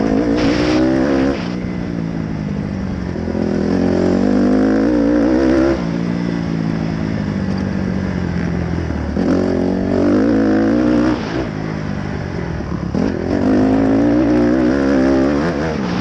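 Dirt bike engine revving up and dropping back to a lower steady note, about four times in a row.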